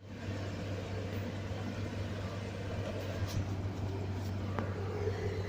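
Diesel engine of a tronton dump truck running with a steady low hum.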